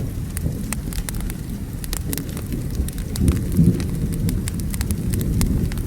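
Wood fire crackling with frequent sharp pops, over steady rain and a low rolling rumble of thunder that swells a little past halfway.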